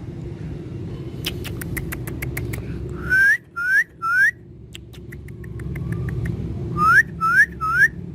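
Pet parrot whistling: two sets of three short, loud whistles that rise and hook over, the first set about three seconds in and the second near the end. A run of quick clicks comes before each set, over a steady low rumble.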